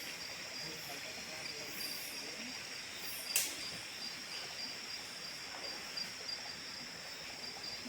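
Insects, crickets or similar, chirping steadily in a fast pulsing high trill over a faint background hiss, with one sharp click about three and a half seconds in.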